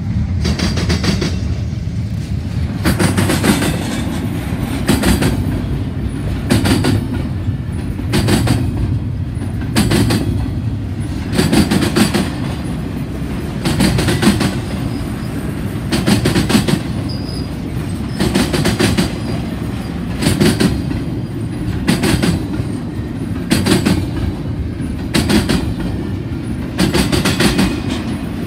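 Double-stack intermodal train's container well cars rolling past, with a steady rumble and the wheels clacking over the track joints in clusters every second or two.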